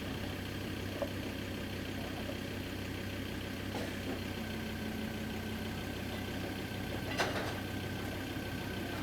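Steady low machine hum with a few sharp knocks, the loudest about seven seconds in.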